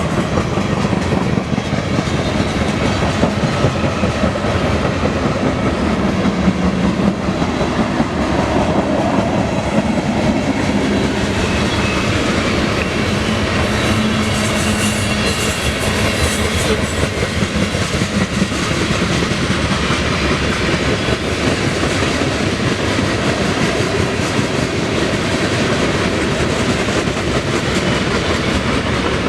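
Loaded coal hopper cars of a freight train rolling steadily past: a continuous rumble of steel wheels on rail with a running clickety-clack over the rail joints.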